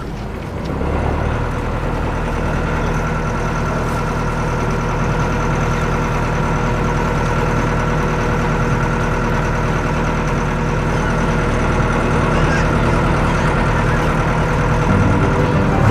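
Boat engine running steadily, a constant drone without change in pitch.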